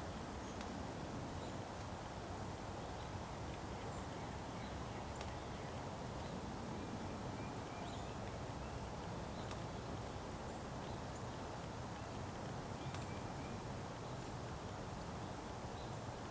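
Outdoor winter ambience: a steady low background rumble with faint, scattered short high chirps and ticks.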